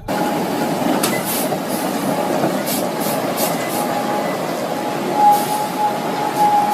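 Steady rolling noise of a moving vehicle, with a thin high squeal that comes and goes and a few faint clicks.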